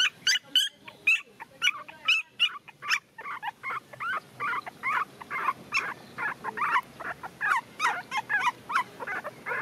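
Puppies whimpering and yipping: a quick run of short, high-pitched cries, about three or four a second.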